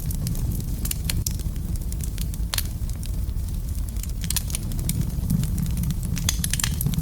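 Wood fire crackling in a fireplace: a steady low rumble of the flames with scattered sharp pops and snaps, one louder pop about two and a half seconds in.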